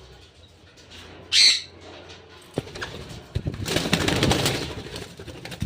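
A parrot flapping its wings in a rapid flurry for about three seconds, strongest in the middle. Before it, about a second and a half in, comes one short, loud, harsh burst, the loudest sound here.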